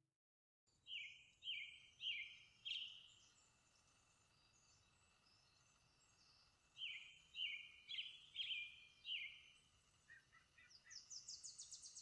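Songbird singing: a run of four downward-slurred whistled notes about half a second apart, a pause of several seconds, then five more. Near the end comes a faster, higher run of short rising notes.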